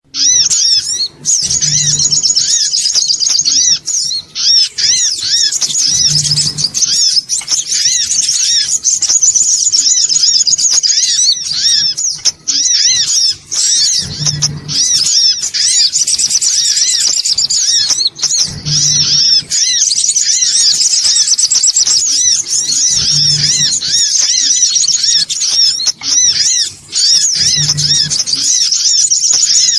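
Sunbirds (songon otong) calling in a rapid, unbroken chatter of high chirps, a busy lure recording meant to draw the birds in. A short low hum recurs every four to five seconds beneath the calls.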